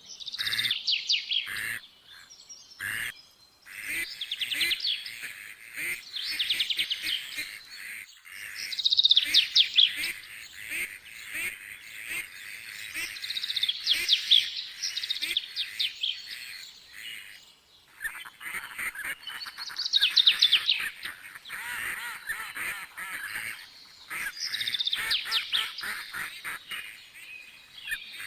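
Birds chirping and chattering, with bursts of rapid calls every few seconds and quieter gaps between.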